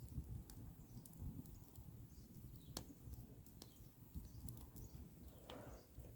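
Faint outdoor ambience: a low steady rumble with scattered small clicks, and a short animal or bird call near the end.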